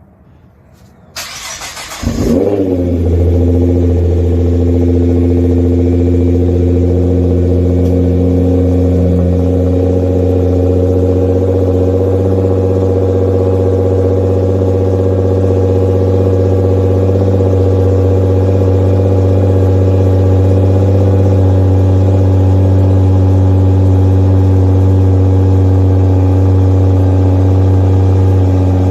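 Nissan GT-R R35's twin-turbo 3.8-litre V6 being started: a brief whirr of the starter about a second in, the engine catching with a quick rise in revs, then settling into a steady idle.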